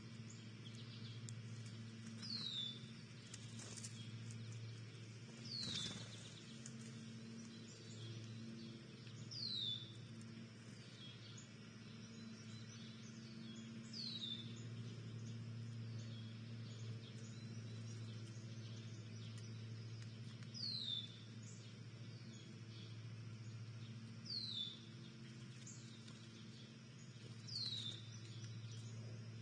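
A songbird repeating one short, high, down-slurred call note about every three to four seconds, over a steady low hum.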